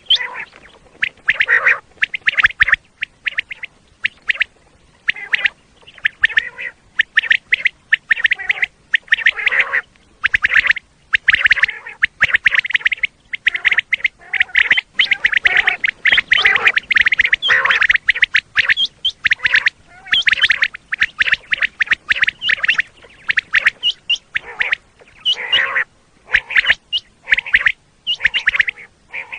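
Common quail calling: a dense, unbroken run of short, sharp calls repeating quickly with only brief pauses.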